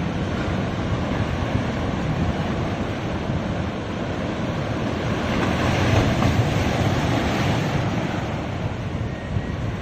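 Sea waves washing onto a beach: a continuous rush of surf that swells and eases, with wind rumbling on the microphone.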